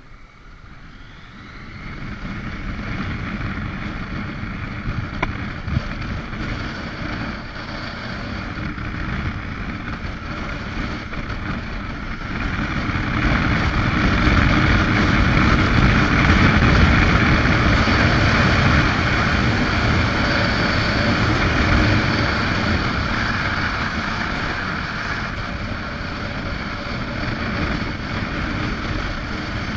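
Motorcycle engine running while riding, with rushing wind. It gets louder about two seconds in and louder again from about halfway through.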